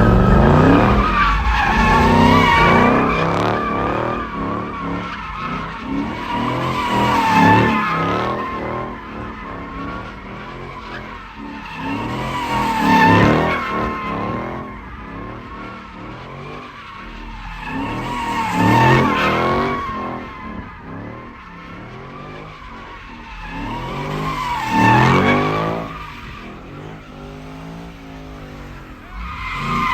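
A car spinning its tyres: the tyres squeal with wavering high tones over the running engine, and the sound swells to a peak about every six seconds.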